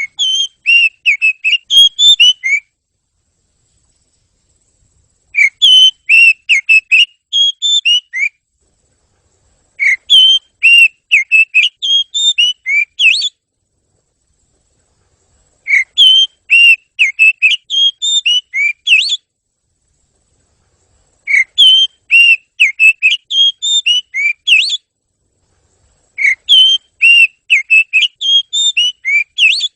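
Oriental magpie-robin (kacer) song: six phrases of quick, clear whistled notes, each about three seconds long and much alike, separated by gaps of complete silence.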